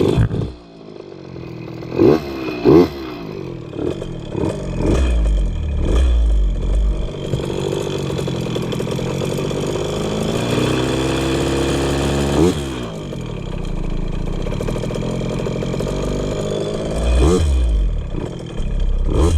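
KTM 50 Mini Adventure's single-cylinder two-stroke engine idling unevenly with its carburettor air screw set 1.5 turns out, with quick throttle blips twice early on and once near the end. The idle sags as if it wants to die and then comes back up, which the rider takes as a sign that the mixture is still a little rich.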